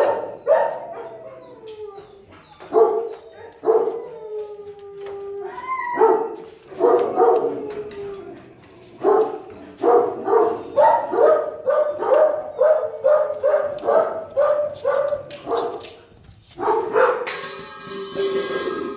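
Big shelter dogs barking and howling, with drawn-out howling calls a few seconds in and a run of quick barks, about two a second, through the middle.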